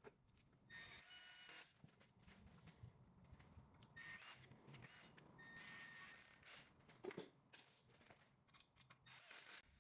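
Cordless gun set to low torque running in the sump bolts of a Peugeot 1.2 PureTech engine in several short bursts of motor whine, with a single knock about seven seconds in.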